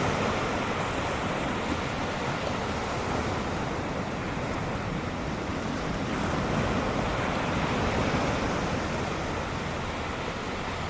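Ocean surf washing onto the beach in a steady rush, swelling slightly partway through.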